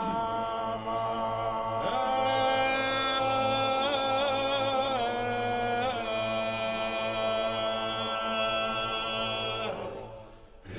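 A man singing unaccompanied, holding one long drawn-out note with a slight waver partway through. The note fades out about ten seconds in, over a steady low hum.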